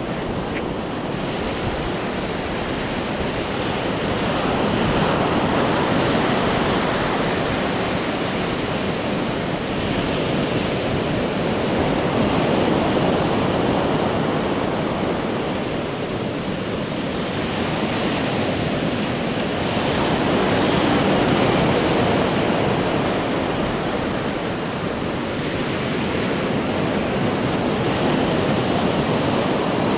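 Ocean surf breaking and washing onto the beach, its rush swelling and easing every several seconds.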